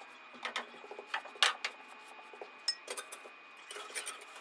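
Small hand brush sweeping ash and debris out of a fireplace, in short irregular scrapes with light metallic clinks.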